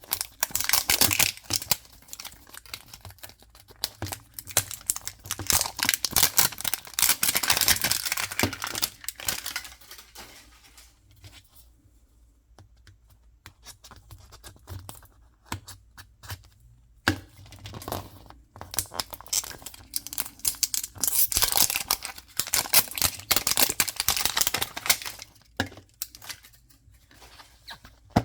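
Toy packaging being torn open and crinkled by hand, in long crackly bursts with a quieter stretch in the middle and a single sharp click about 17 seconds in.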